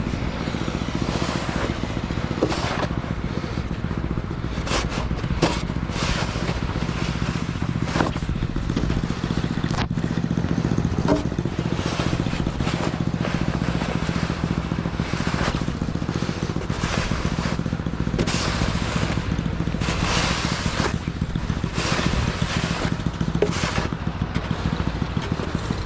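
Murray Ultra 8/27 snowblower's 8 hp engine running steadily under load, with short scraping noises now and then as the machine works through snow.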